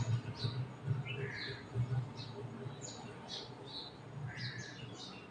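Small birds chirping repeatedly, short high calls a couple of times a second, some sliding down in pitch. Under them are soft low thumps and squelches from a hand mixing chicken pieces into wet masala in a steel plate, strongest in the first two seconds or so.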